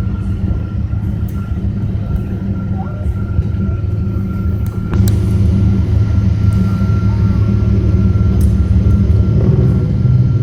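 Cabin noise of a Boeing 777-200ER on the ground just after landing: a steady low rumble from the engines and the rolling aircraft, with a faint steady whine. A click about five seconds in, after which the rumble gets slightly louder.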